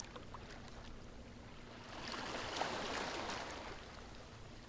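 Sea waves: a soft, steady wash of surf that swells about two seconds in and ebbs again toward the end.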